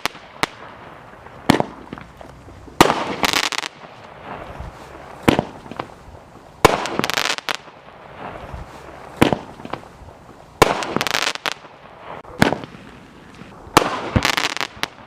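Roman candles firing, from a pack of Son of a Gun candles by Dominator Fireworks. Each sharp pop is followed about a second later by a longer, noisy burst, and the cycle repeats every two to three seconds, about five times.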